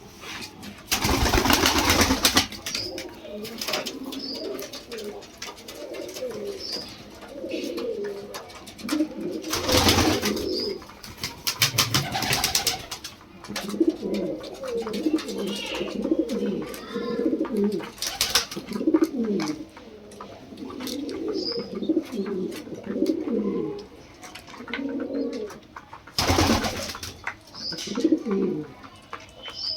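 Lahore pigeons cooing over and over in low, rolling phrases. Three loud, noisy flurries break in, one near the start, one about a third of the way through and one near the end.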